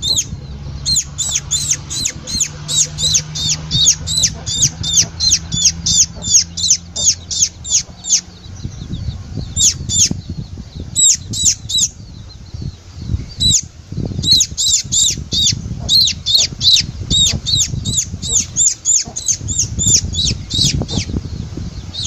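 Fledgling bird held in the hand, cheeping over and over in short, loud, high-pitched calls at about two to three a second, breaking off briefly twice. Under the calls there is low rumbling handling noise.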